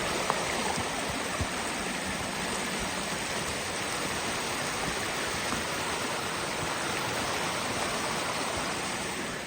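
Flowing creek water, rushing steadily.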